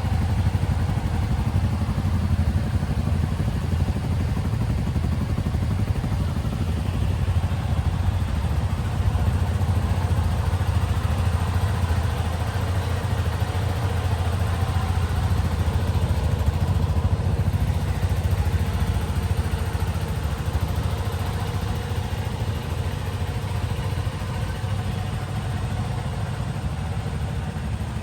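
Motorcycle engine idling steadily on a cold start after long storage, easing slightly in loudness near the end.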